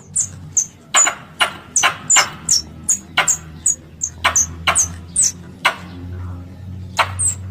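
Squirrel lure call: sharp squirrel chips repeated about two to three times a second, each a high note dropping in pitch with a click at its start, with a short pause about six seconds in, over a steady low hum.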